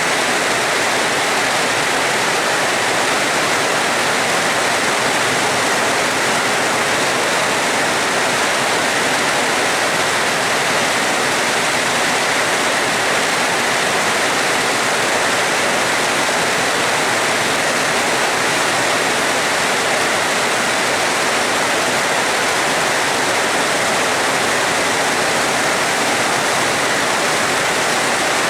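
Heavy rain pouring down in a steady, even rush, with no thunder.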